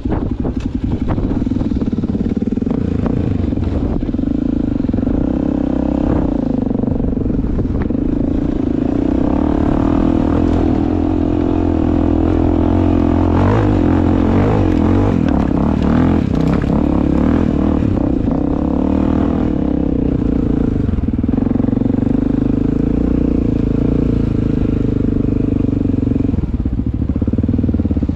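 Dirt bike engine running steadily while riding a wooded trail, its pitch rising and falling a little with the throttle, with scattered clatter from the rough ground.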